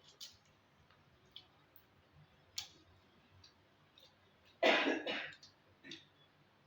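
A person coughs and clears their throat, loudly about four and a half seconds in, with a smaller cough a second later. Before it, a few faint mouth clicks from eating.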